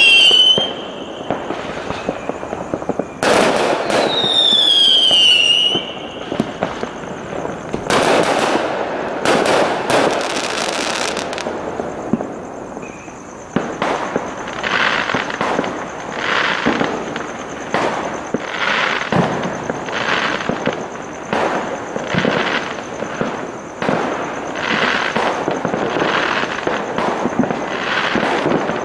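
Fireworks going off: a whistling firework with a falling pitch about three seconds in, a cluster of sharp bangs around eight to eleven seconds, then a long run of bangs about once a second over a steady high-pitched whine.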